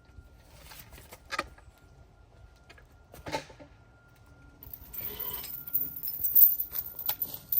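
Metal chains clinking and rattling in a few sharp chinks at first, then a busier, jingling rattle through the second half.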